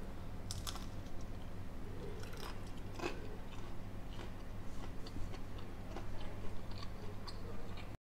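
Someone chewing a crispy fried potato pancake, with scattered crunchy crackles over a low steady hum. The sound cuts off just before the end.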